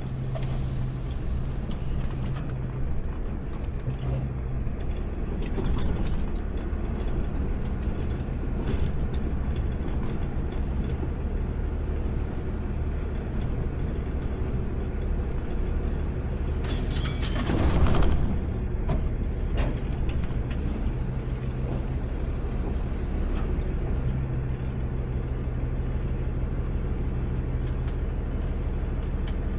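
Automated sideload garbage truck's diesel engine running steadily, heard from inside the cab, with a low hum that drops in and out. A brief rush of noise comes a little past halfway.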